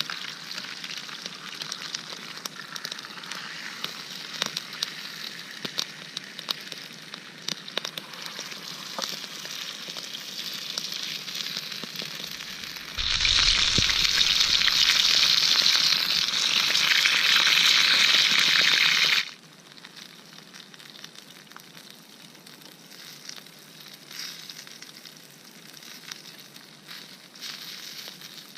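Chicken breast stuffed with cheese frying in a hot skillet over a wood fire: a steady sizzle with scattered small crackles. About halfway through the sizzle suddenly turns much louder for about six seconds, then drops back quieter.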